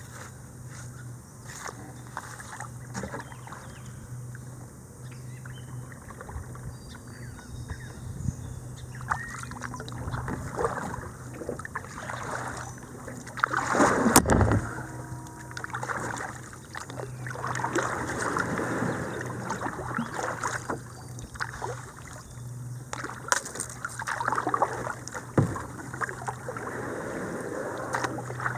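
Kayak paddling on a small creek: irregular paddle splashes and water swishing along the hull, with one louder knock or scrape about halfway through.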